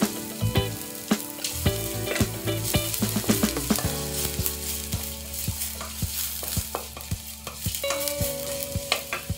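Sliced shallots and garlic sizzling in hot oil in an aluminium wok, with a wooden spatula stirring and repeatedly scraping and knocking against the pan.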